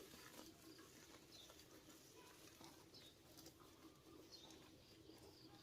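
Near silence, with faint scattered short high chirps, like distant birds, over a low steady hum.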